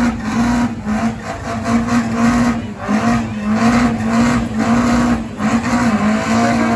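Drag-racing car engine held at high revs on the start line. Its steady note keeps cutting in and out, with sharp exhaust bangs about three times a second and flames at the exhaust, typical of a launch limiter.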